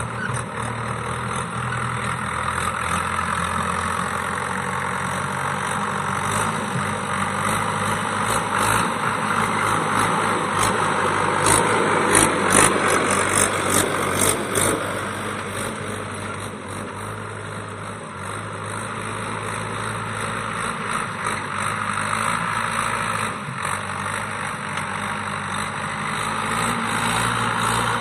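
Mahindra tractor's diesel engine running steadily while ploughing wet ground. It grows louder about halfway through, then eases off again.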